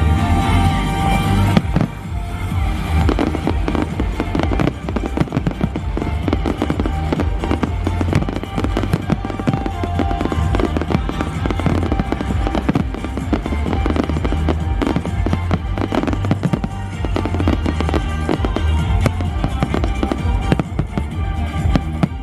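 A fireworks display: many firework bangs and crackles in quick succession over loud show music with a deep bass.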